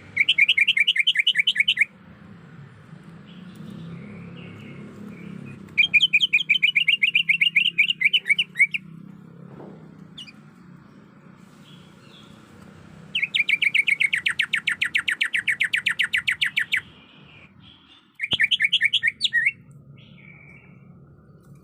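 Greater green leafbird (cucak ijo) calling in four bursts of fast, evenly repeated high notes, the longest lasting about three and a half seconds, over a faint low hum.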